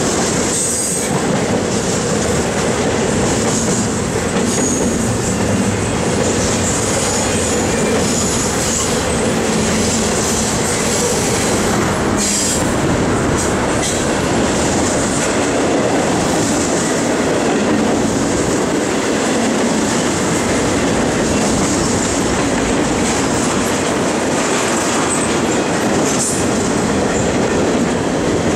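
CSX double-stack intermodal freight train's well cars rolling past, a steady rumble of steel wheels on the rails with high wheel squeal coming and going.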